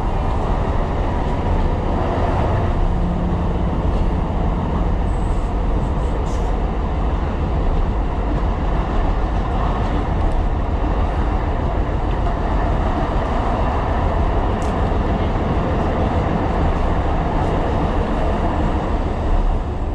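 Tyne & Wear Metro train running along the track: a steady rumble of wheels and running gear, heard from on board.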